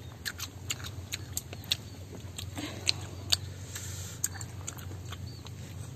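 A child chewing crisp starfruit: scattered small crunching clicks at an uneven pace, over a low steady hum.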